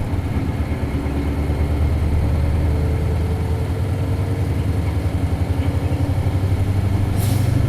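Isuzu Cubic bus's 8PE1-S V8 diesel engine running under way, a steady pulsing low rumble that slowly grows louder. A brief hiss comes near the end.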